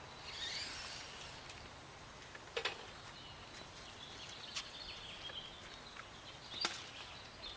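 Quiet outdoor background noise with a brief high whine that rises and falls in the first second, a faint high tone partway through, and a couple of sharp clicks.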